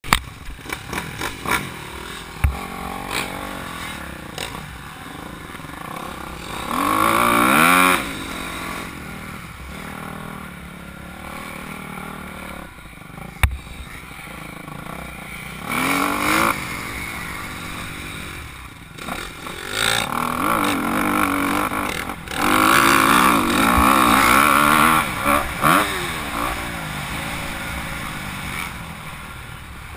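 Honda CRF250R single-cylinder four-stroke motocross bike on the track, revving up and down through the gears as it rides, with loud rising runs about a quarter of the way in and through most of the last third.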